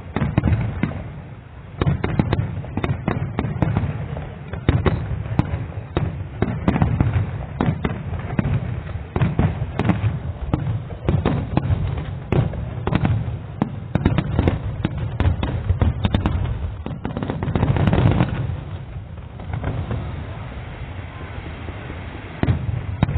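Fireworks display: rapid, irregular crackling bangs and deep booms from aerial shells bursting, with a heavier rumbling swell late on that then thins out.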